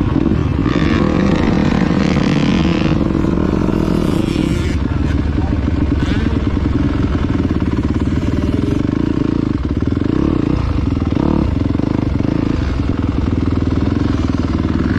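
Dirt bike engine running, with a louder, higher-pitched stretch about one to three seconds in.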